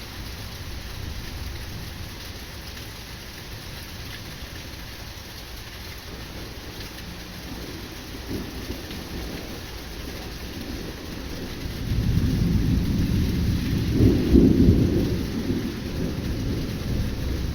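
Steady rain falling in a sudden summer thunderstorm, with a long roll of thunder that builds about halfway through, is loudest a few seconds before the end, then fades.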